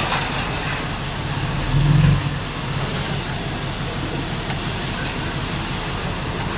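Heavy diesel engine of earthmoving equipment running steadily with a low pulsing note, rising briefly in a louder surge about two seconds in.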